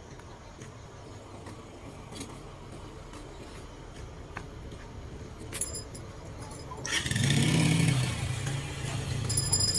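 Low steady hum with a few faint clicks, then about seven seconds in a vehicle engine comes in loudly and keeps running.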